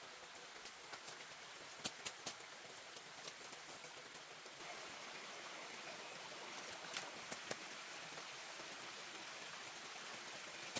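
Steady hiss of falling or running water with scattered sharp ticks; it grows slightly louder about four and a half seconds in.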